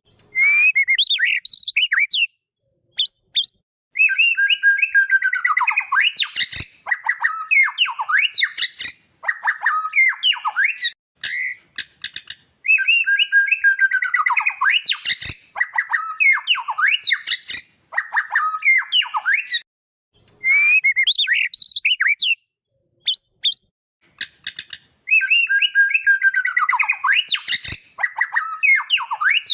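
Recorded song of a white-rumped shama (murai batu): loud, rapid strings of varied whistles and chattering notes in phrases of several seconds. The same sequence repeats about every 11 seconds, with short gaps of dead silence between phrases.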